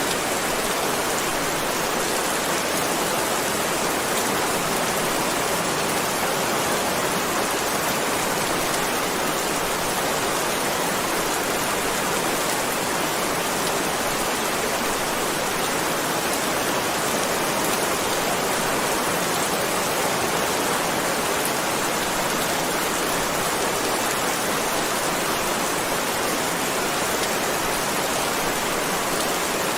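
Heavy rain falling steadily, an even hiss with no thunder or breaks.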